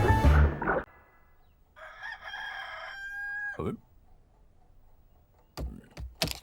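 Music cuts off under a second in, then a rooster crows once, a long call that ends in a falling note. A few sharp knocks follow near the end.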